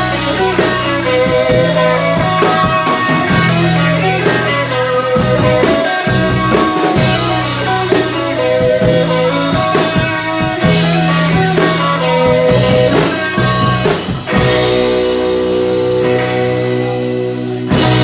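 Psychedelic rock band playing an instrumental passage: electric guitar lines over bass and a drum kit keeping a steady beat. About three-quarters of the way through the drums drop out and held chords ring on, until a loud hit brings the band back in near the end.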